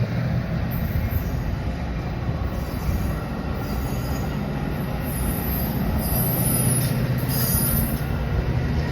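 Diesel train running past with a steady engine drone, and high-pitched wheel squeal coming and going in the second half.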